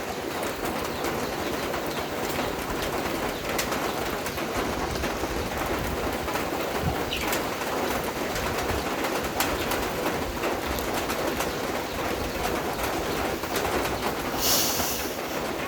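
Steady rain falling, an even hiss with many small drops ticking, and a bird calling through it. A brief, louder high hiss comes near the end.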